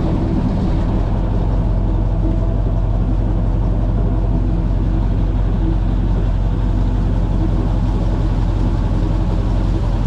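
Airboat engine and propeller running with a loud, steady low drone that holds the same pitch throughout.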